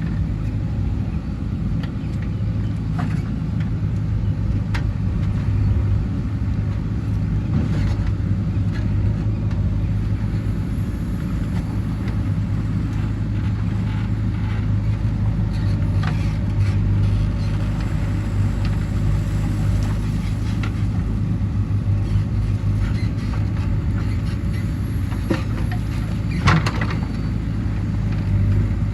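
JCB 3DX backhoe loader's diesel engine running steadily under work, with a low hum, and a few sharp knocks and clanks from the machine as it digs, the loudest near the end.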